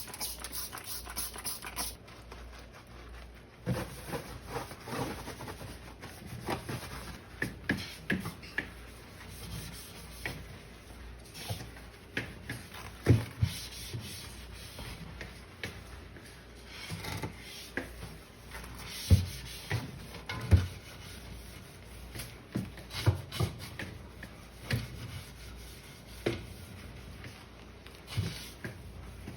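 A fridge being emptied and cleaned by hand: irregular knocks and clatter of containers and shelves being handled, with rubbing and scrubbing sounds between.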